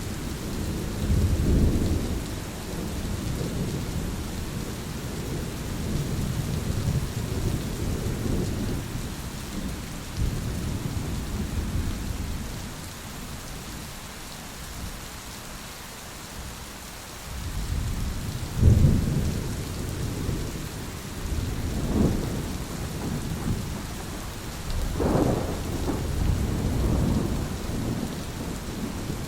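Thunderstorm: steady rain falling under rolling thunder, with a lull in the rumbling midway and then several sharper thunderclaps in close succession.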